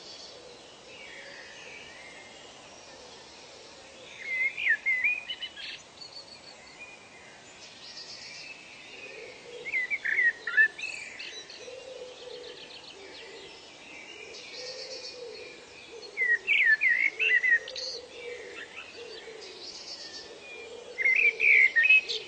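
A songbird singing short, quick phrases, one about every five to six seconds (four in all), over a steady background hiss of outdoor ambience. A faint, low call repeats softly underneath.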